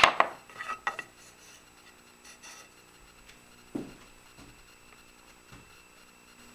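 Handling noise from a small wooden piece on a workbench: a sharp click and a few quick rattling taps at the start, then three soft, dull knocks spread over the next few seconds.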